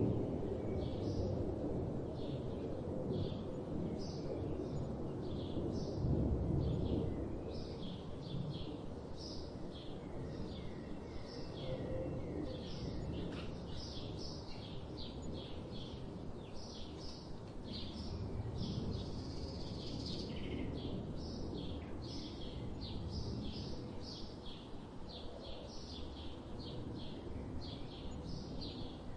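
Many small birds chirping continuously, short high calls overlapping, over a steady low rumble of outdoor background noise that swells briefly about six seconds in.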